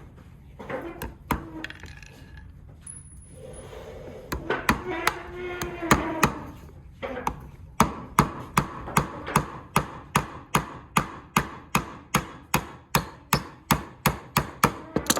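Hammer driving a nail into wood: a few scattered taps, then from about halfway a long, steady run of strikes at about three a second.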